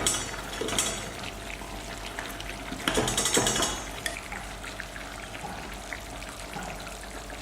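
Chicken braise bubbling and sizzling in a clay pot while it is stirred, with louder bursts of stirring at the start and again about three seconds in.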